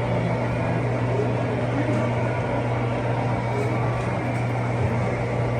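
Model trains running on a large layout: a steady rolling rumble over a constant low hum.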